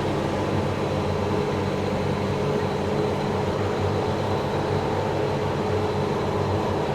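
Cummins diesel engine of a self-propelled crop sprayer running steadily under load, heard from inside the cab as an even drone with several constant tones.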